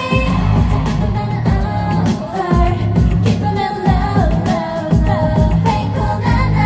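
K-pop song with female vocals over a heavy, steady bass beat, played loud through a stage PA.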